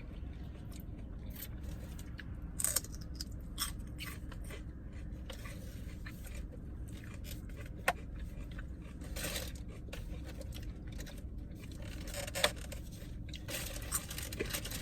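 Eating sounds inside a car: scattered crunches, scrapes and clicks of food and takeout packaging being handled and bitten, over a steady low cabin rumble.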